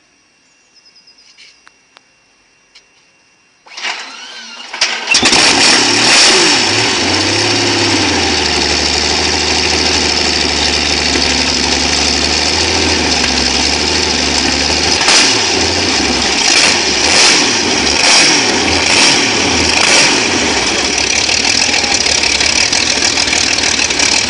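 An engine starts about four seconds in, after a short quiet stretch with a few faint clicks, then runs loudly and steadily, with several brief surges between about 15 and 20 seconds in.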